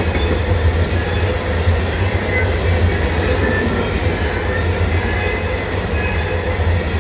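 Freight train of tank cars rolling past: a steady, loud low rumble, with a few faint, brief wheel squeals.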